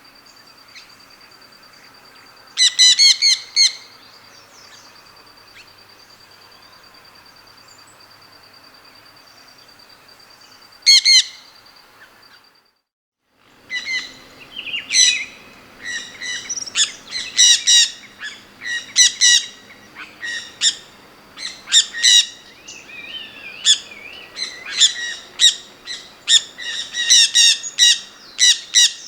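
Birds chirping: two short bursts of rapid chirps over a steady high-pitched tone, then, after a brief drop-out about 13 seconds in, near-continuous chirping.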